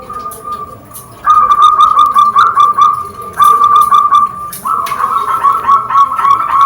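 Zebra doves (perkutut) cooing: a rapid rolling trill of notes that starts loudly about a second in and grows louder twice more.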